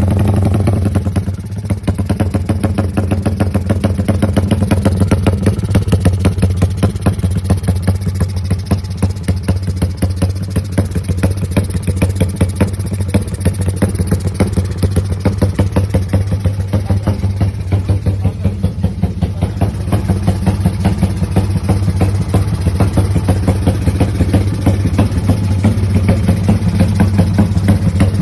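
250 cc motorcycle with an aftermarket BBS exhaust, settling from a rev back to idle about a second in, then idling steadily with a rapid, even exhaust pulse.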